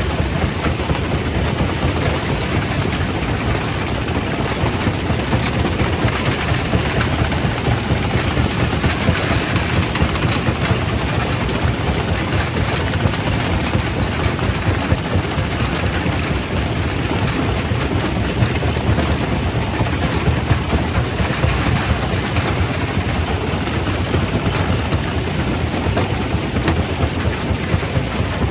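Quarry primary rock crusher running steadily: a continuous heavy rumble with a dense clatter of rock being broken, without a pause.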